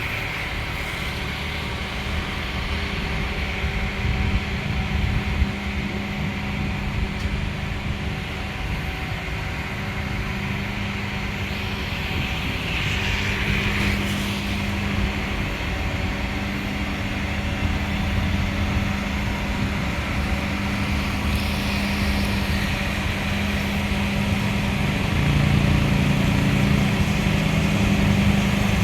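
Steady mechanical drone inside a passenger train coach: a low rumble with a constant hum, growing a little louder near the end.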